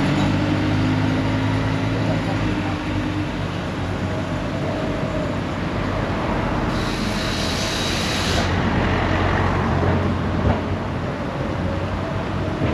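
Train running along the seafront railway: a steady diesel engine hum under a wide rushing noise, with a short hiss about seven seconds in.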